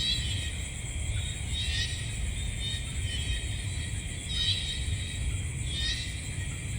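Night insect chorus: a steady high shrill trilling, swelling four times into a louder rising-and-falling call, over a low steady rumble.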